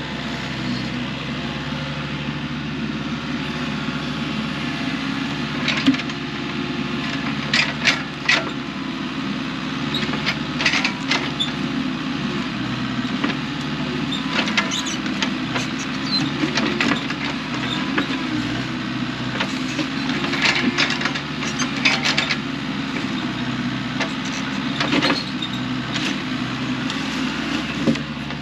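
An engine running steadily with sharp cracks and knocks of wooden logs scattered through, the sound of firewood logs being cut or handled by machine.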